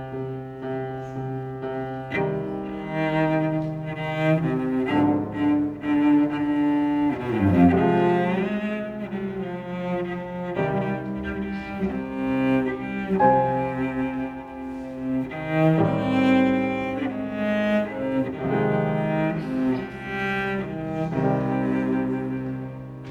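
Live bowed string music with a cello prominent, playing sustained notes, several at once, with a downward slide in the low part about eight seconds in.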